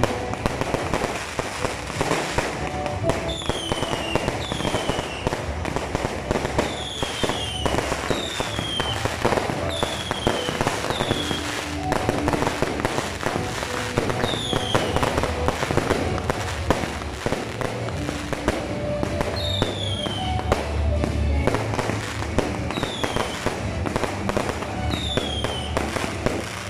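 Fireworks display going off without pause: dense crackling and bangs from shells and launches, with high whistles sliding down in pitch about every second or two.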